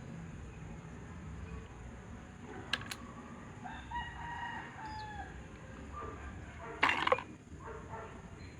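A rooster crowing once, a call of about a second and a half midway through. A couple of sharp clicks come before it, and a short, loud clatter follows about two-thirds in.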